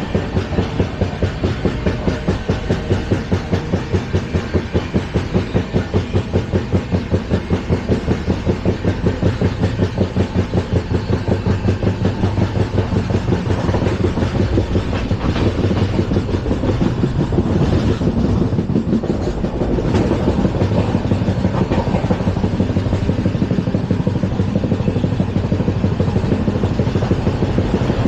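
LHB passenger coach running on the track, its wheels beating a rhythmic clatter of about four beats a second that blurs into a denser, steadier rumble after about a dozen seconds.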